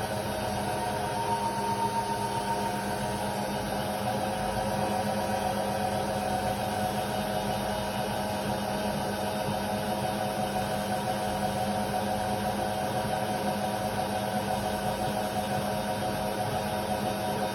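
Indesit WIDL 106 washer-dryer running steadily: a continuous motor hum with a few steady whine tones from the machine.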